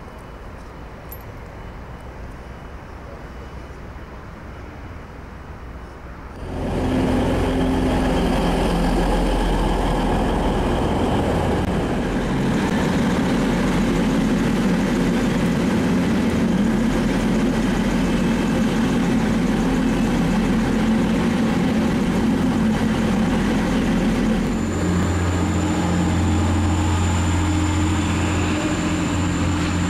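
Diesel multiple-unit train running at a station platform: a loud, steady engine rumble sets in suddenly about six seconds in. Near the end the low rumble strengthens and a thin, high steady whine joins it.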